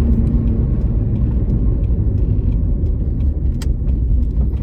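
Car driving, heard from inside the cabin: a steady low rumble of engine and tyre noise, with a sharp click about three and a half seconds in.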